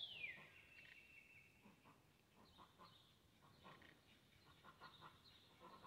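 Near silence outdoors, with faint bird calls: a falling whistle at the start, then a few faint chirps.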